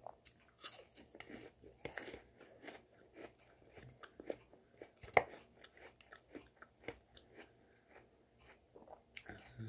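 A person chewing crunchy food close to the microphone: irregular soft crunches and wet mouth clicks, with a few louder bites about a second in, at two seconds and around five seconds.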